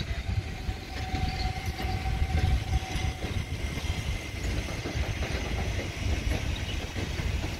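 An electric train approaching on the line, heard as an uneven low rumble. A steady high tone sounds for the first three seconds.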